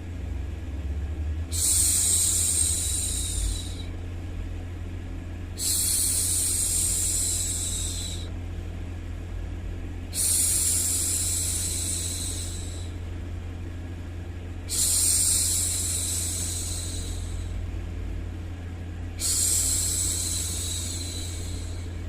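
A woman's voice making a long hushing 'shhh', repeated five times, each about two seconds long and fading out, about every four and a half seconds, over a steady low hum.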